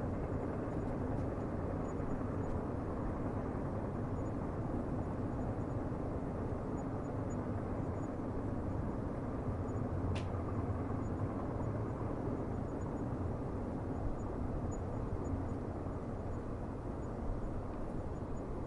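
Steady low rumble of a distant train running, with one faint click about ten seconds in.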